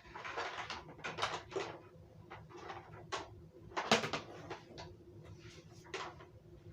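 Irregular knocks, clicks and rustling from a vacuum cleaner and its power cord being handled, with the sharpest knock about four seconds in; no motor is running yet.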